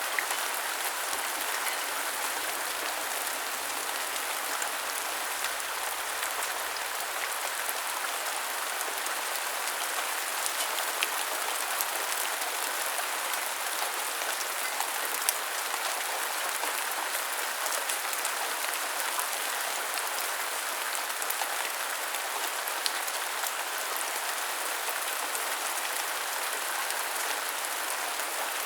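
Steady rain falling: a dense, even hiss speckled with many fine drop ticks.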